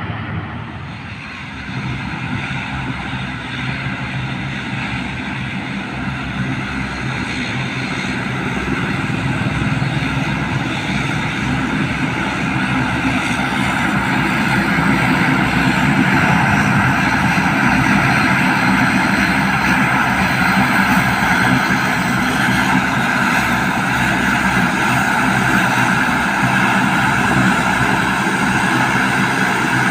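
Airplane engines running, growing louder over about the first fifteen seconds and then holding at a steady, loud level with a constant whine.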